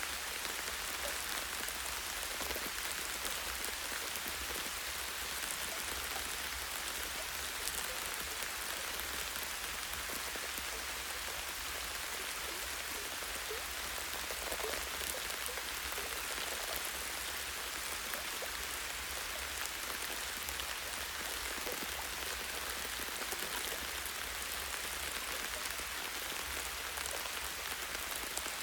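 Steady light rain, drops pattering on leaves and a tree branch, with a scattering of individual drip ticks.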